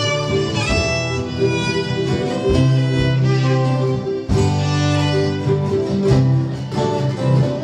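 Acoustic string band playing an instrumental passage, with a fiddle carrying the melody over strummed acoustic guitar and no singing.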